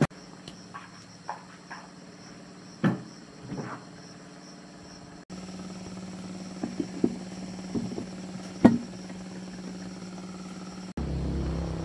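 Scattered sharp knocks and clinks of metal tools and parts being handled during engine repair work. After about five seconds a steady low hum runs under the knocks, and in the last second a louder low engine rumble sets in.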